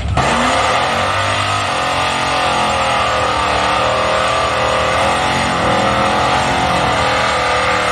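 A drag-racing vehicle's engine running loud at high revs, its pitch wavering up and down. It cuts in abruptly and drops away near the end.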